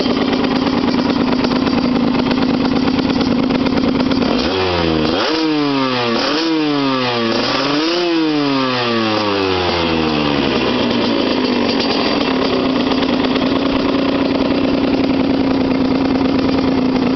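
Aprilia MX 125 two-stroke single-cylinder engine with a full Arrow exhaust, idling steadily, then blipped three times in quick succession about a third of the way in; the revs fall away slowly after the last blip and it settles back to idle.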